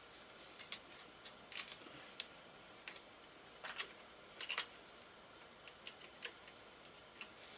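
Light, irregular clicks and taps of small metal parts and hand tools being handled while the water pump is taken apart on a KLR 650 motorcycle engine, some in quick pairs or clusters.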